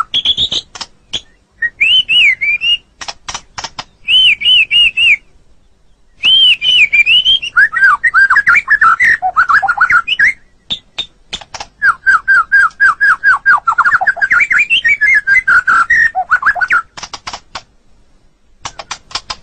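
White-rumped shama singing: phrases of loud, clear whistled notes, many repeated several times in quick series, mixed with volleys of rapid dry clicks, with short pauses between phrases.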